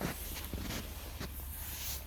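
Irregular rustling and crackling from hands-on garden work, with a few short soft knocks over a steady low hum.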